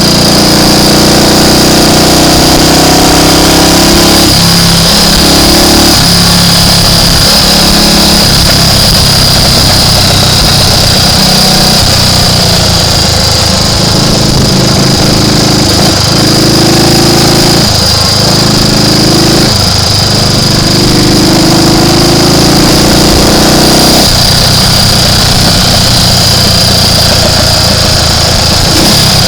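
Triumph Tiger Cub's single-cylinder four-stroke engine running on the move, its revs stepping up and down several times as the rider works the throttle and gears.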